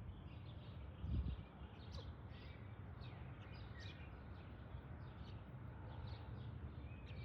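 Small birds chirping over and over in short calls, over a steady low outdoor rumble, with a brief low thump about a second in.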